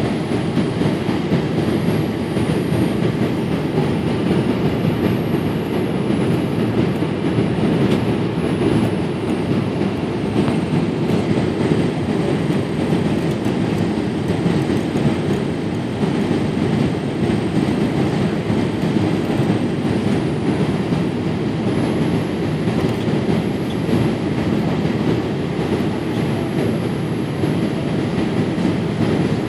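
Steady cabin noise inside a Boeing 787-8 in flight: the low, even rush of engines and airflow heard from a window seat, with no bumps or sudden changes.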